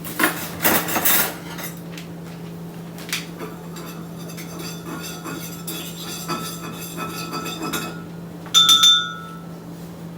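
Cups and utensils clinking while a coffee drink is made up: a few knocks at the start, then a run of small clinks, like a spoon against a cup, and one loud ringing clink about eight and a half seconds in.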